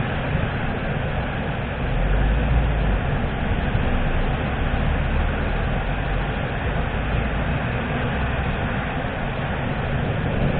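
Thunderstorm: steady heavy rain, with a low rumble of thunder swelling up about two seconds in and rolling on.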